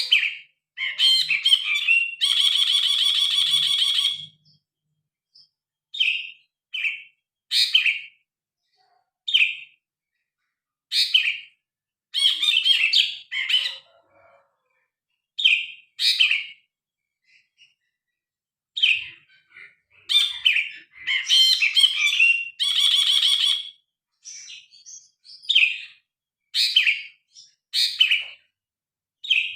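A brinji kelabu, a bulbul, singing loud, varied short phrases separated by pauses. Twice, once about two seconds in and again near three quarters of the way through, it gives a longer rapid buzzing rattle.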